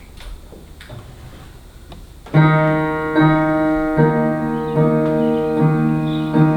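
Quiet faint clicks, then about two seconds in a piano starts playing: the same low chords struck again and again, about one every 0.8 seconds, opening the song.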